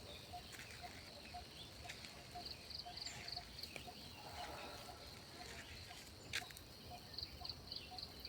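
Faint outdoor nature ambience: high insect chirps in short pulsed groups, a soft regular peep about twice a second, and scattered small bird chirps. A single sharp click about six seconds in.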